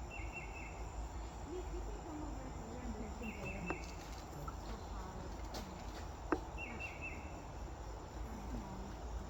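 A forest insect giving a short, rapid pulsed chirp, repeated about every three seconds, over steady low outdoor rumble, with two sharp clicks in the middle.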